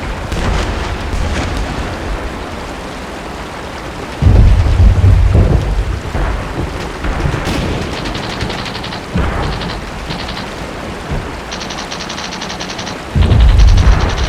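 Steady rain with deep rolling booms of thunder or distant artillery, a loud one about four seconds in and another near the end. In between come several bursts of rapid machine-gun fire.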